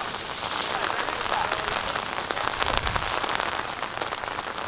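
Rain falling, with many separate drops ticking close to the microphone; it grows louder in the middle, and a low rumble of wind on the microphone comes about three seconds in.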